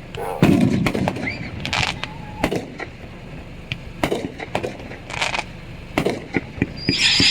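Fireworks and firecrackers going off: scattered sharp bangs and pops, and near the end a firework starts hissing with a high, steady whistle.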